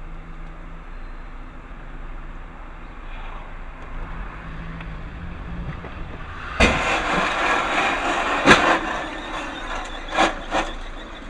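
Vehicle running as heard through a dashcam, then a sudden loud bang a little past halfway, like a collision, followed by noisy clatter and another sharp knock about two seconds later. Two smaller knocks come near the end.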